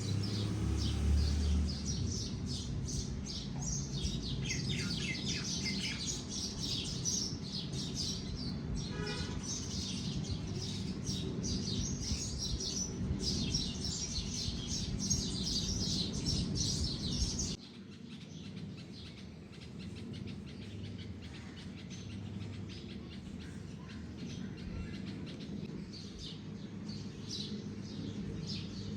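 Many small birds chirping and twittering over a steady low rumble. About seventeen seconds in, the sound drops suddenly and the chirping goes on more faintly.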